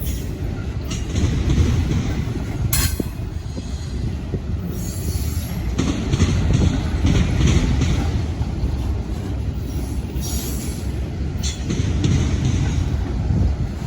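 Railroad cars rolling past with a heavy, steady rumble, sharp metallic knocks twice, and intermittent high wheel squeal.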